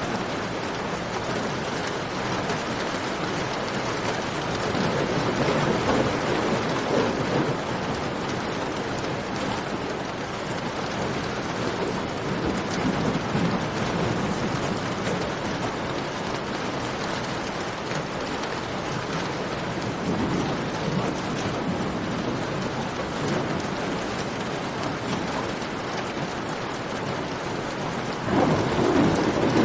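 Steady heavy rain, a dense even patter, with low rumbles swelling up several times. It gets louder just before the end.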